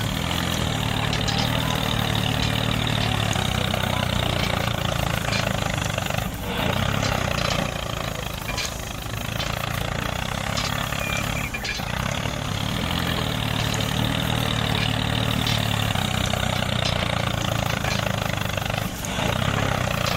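A small engine or motor running steadily, with brief dips in level about a third, half and nine-tenths of the way through.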